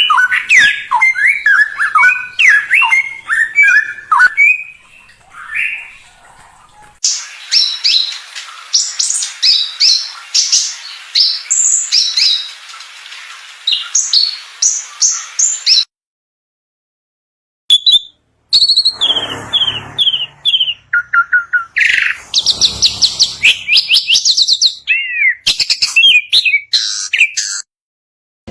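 Songbirds singing in a fast, varied chatter of chirps and whistles. The recording is spliced from several takes: rapid high notes run from about seven seconds in, the sound drops out completely for a couple of seconds past the middle, and then a different run of chirps and trills follows.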